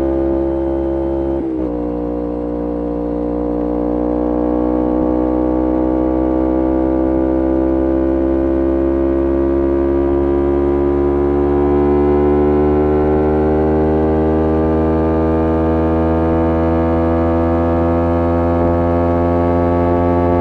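Parallel-twin engine of a 2011 Kawasaki Ninja 250R SE, fitted with a full Graves racing exhaust, under way with a steady exhaust drone. There is a brief dip about a second and a half in, and then the pitch climbs slowly as the bike gathers speed.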